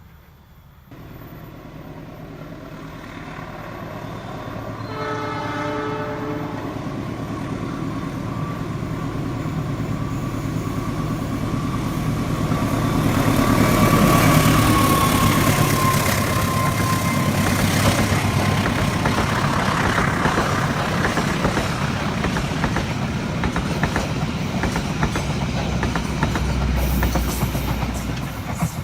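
A long train approaches and gives one short horn blast about five seconds in, then passes close, its rumble growing loudest about halfway through, with a thin tone falling in pitch as it goes by. The cars keep rattling past on the rails to the end.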